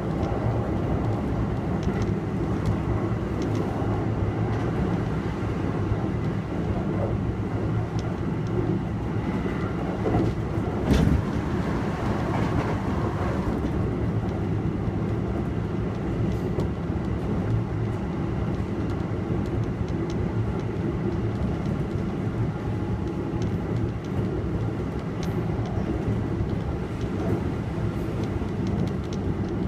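Kintetsu 1233 series electric train running at speed, heard from inside the carriage: a steady rumble of wheels on rail with faint rail-joint clicks, and one brief loud knock about eleven seconds in.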